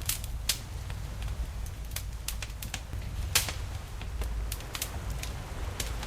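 Wood fire crackling with irregular sharp pops, the loudest about half a second and three and a half seconds in, over the low steady rumble of ocean waves.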